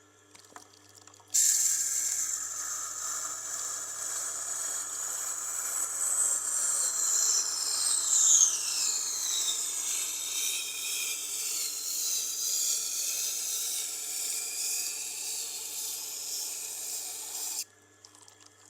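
Knife blade pressed against the turning wheel of a Tormek water-cooled sharpening machine: a steady grinding rasp that starts suddenly about a second in and stops shortly before the end, over the machine's faint motor hum.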